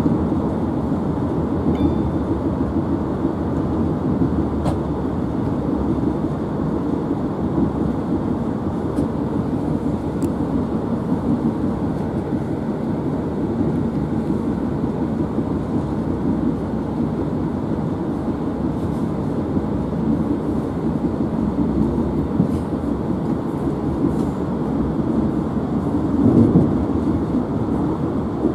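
Steady rumble of a passenger train's wheels running on the rails, heard from inside the moving carriage, with a brief louder swell near the end.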